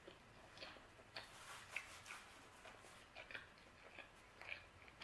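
Faint chewing of a mouthful of pizza with the mouth closed: soft, irregular little clicks and crunches, several a second.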